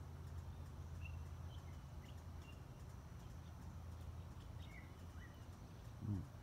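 Faint, scattered short chirps of small birds over a steady low hum.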